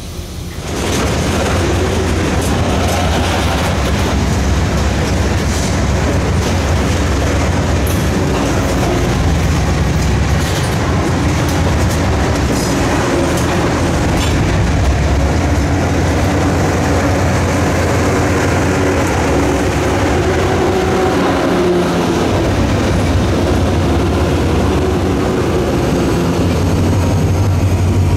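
Freight train passing close by: covered hopper cars and a boxcar rolling past with a steady rumble and wheels clicking over rail joints. Near the end the train's diesel locomotives, an EMD GP40-3 and a GE B23-7, come by.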